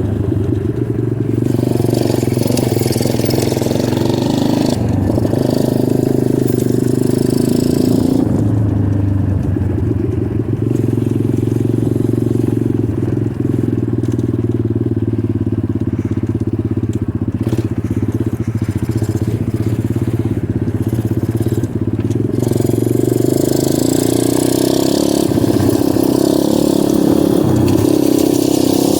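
Dirt bike engine running as it is ridden, its pitch rising and falling with the throttle, with a rushing noise that comes and goes above it.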